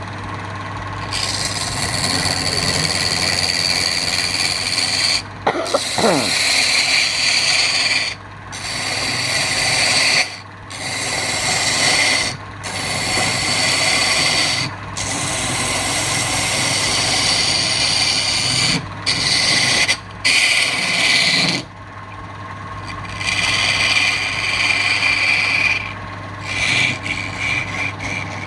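Woodturning lathe humming steadily while a tool is worked against the spinning wood in repeated rasping passes, about ten, each lasting one to four seconds with brief breaks between, lighter near the end.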